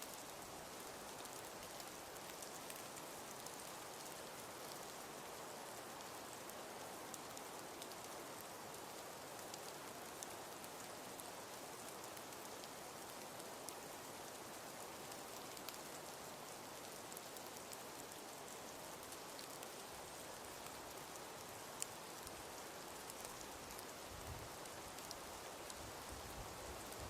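Wood fire burning in a fireplace, a steady soft hiss with many small crackling pops and one sharper pop about three-quarters of the way through.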